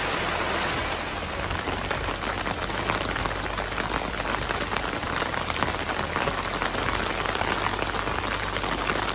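Steady rain falling, with a dense stream of individual drop hits.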